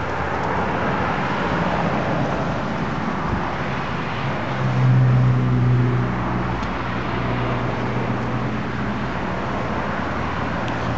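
Steady road-traffic noise, with a vehicle engine hum that rises about four and a half seconds in, is loudest around five seconds, then carries on more faintly.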